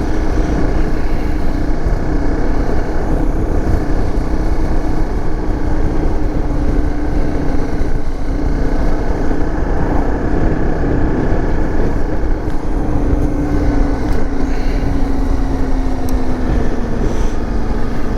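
Dirt bike engine running at a steady cruise under heavy wind and road rush, its pitch easing down a little in the last few seconds.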